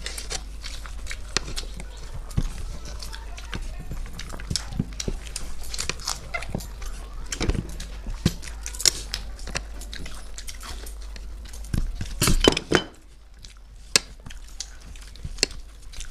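Close-up eating sounds: chewing and crunching, with small irregular clicks and taps of food and plate. A louder cluster of clicks comes about twelve seconds in.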